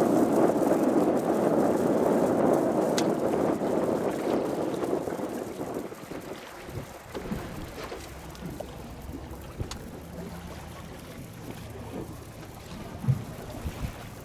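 Wind buffeting the microphone on the water, loud at first and easing off about halfway through, leaving a faint low hum and a few small knocks.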